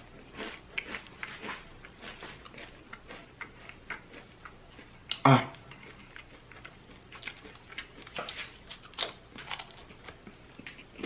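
Ghost pepper potato chips being bitten and chewed close to the microphone: a string of small, irregular crunches. There is one short, loud vocal sound about halfway through.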